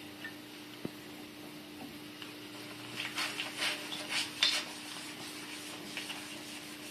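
Wet, ash-coated newspaper scrubbing the glass of a wood stove door: a quick run of rubbing strokes for about a second and a half, starting about three seconds in, over a faint steady hum.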